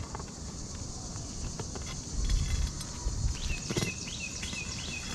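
Scattered knocks and scrapes on an asphalt shingle roof as a nailed-down shingle is worked loose, with one sharper knock a little under four seconds in. A run of short, repeated high chirps, like a bird's, starts a little past halfway.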